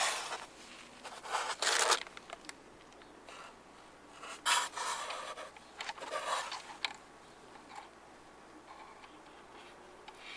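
Irregular scraping and rubbing strokes worked by hand on a car's steel door panel. There are bursts at the start, around two seconds in, and twice in the middle, then it goes quieter.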